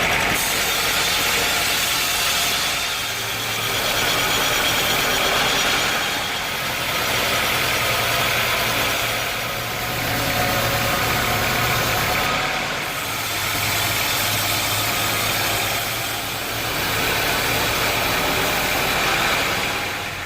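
Machinery running continuously with a low hum under a loud hiss. The noise eases slightly every three to four seconds before building again.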